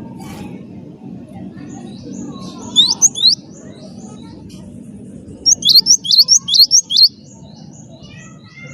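Gelatik batu (cinereous tit) singing in sharp, rising whistled notes: a quick burst of three about three seconds in, then a longer run of about eight a couple of seconds later. Fainter chirps run throughout, over a steady low background noise.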